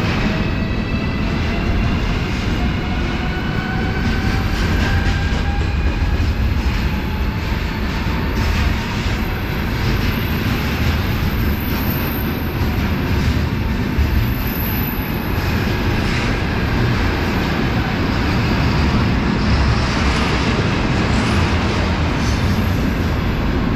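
Loaded container flatcars of a freight train rolling past close by: a steady rumble of steel wheels on rail. Faint whining tones glide in pitch during the first several seconds.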